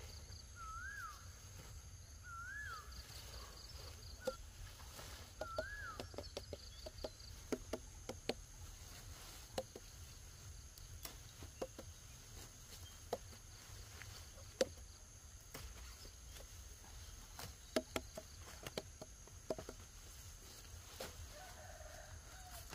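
A bird gives four short calls that rise and fall in pitch during the first six seconds, then scattered light taps and knocks follow irregularly over a faint low background hum.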